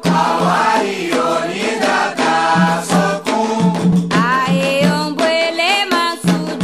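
Candomblé chant for Xangô: voices sing a melodic chant over a steady drum beat.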